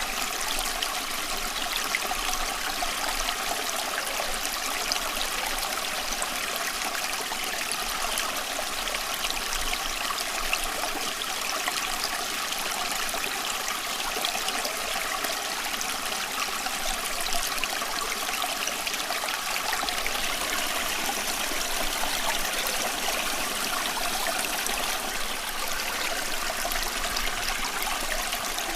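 Running water of a small stream, a steady, even trickling and babbling with no change throughout.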